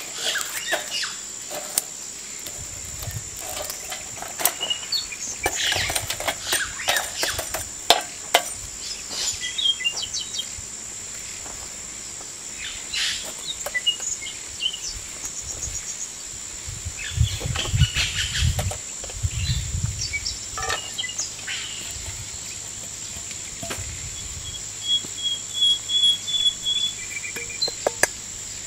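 Outdoor ambience: a steady high-pitched insect drone with birds chirping, a short trilled call near the end, and scattered clicks and a few low thumps in the middle.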